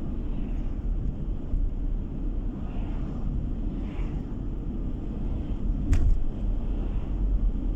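Car road and engine noise heard from inside the moving car, a steady low rumble. A single sharp click or knock about six seconds in.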